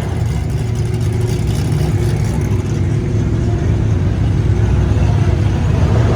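Car engine running steadily with a low hum, getting slightly louder toward the end.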